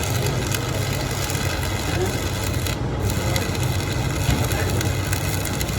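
Workshop machinery running steadily, with a constant low hum under a continuous rough scraping hiss of metalwork.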